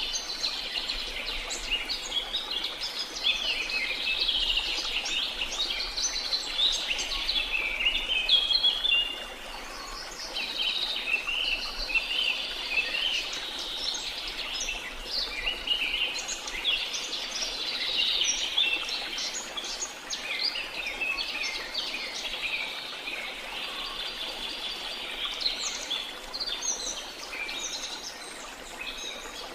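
Dense chorus of many birds chirping and singing at once, over a faint steady wash of water.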